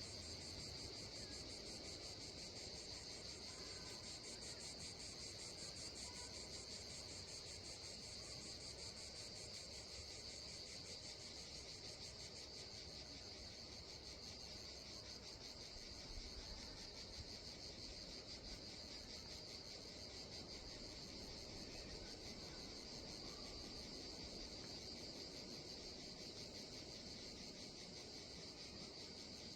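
Crickets chirping steadily, an unbroken high-pitched trill made of very fast pulses.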